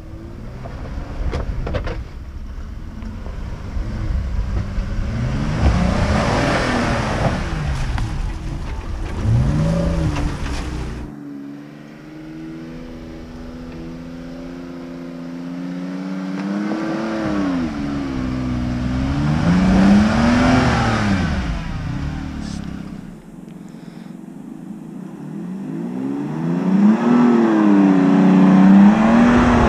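Jeep Cherokee Trailhawk engine revving up and down in repeated surges as the Jeep climbs a rutted dirt trail. The surges grow louder near the end as it comes closer.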